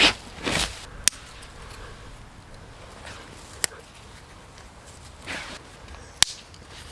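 Rustling movement through leaf litter, with three sharp single cracks about two and a half seconds apart.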